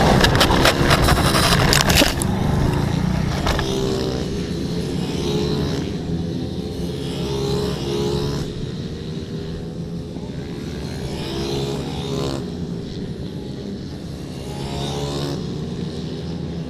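Racing 14 hp pit bike engines at high revs. The pitch climbs and falls back every couple of seconds as they accelerate and shift or lift. A loud, noisy rush fills the first two seconds.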